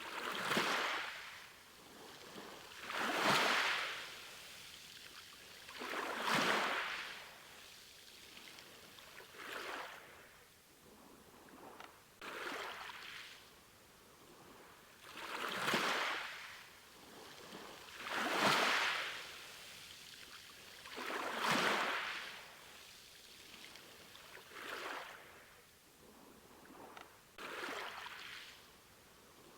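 Small sea waves washing in, each one a swelling hiss that rises and falls back, coming regularly about every three seconds.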